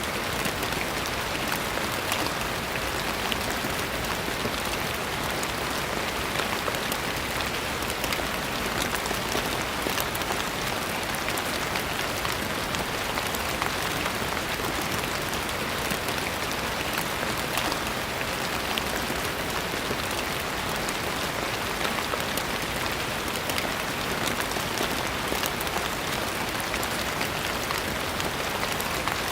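Steady gentle rain falling: an even hiss with many small drop taps running through it, unchanging in level.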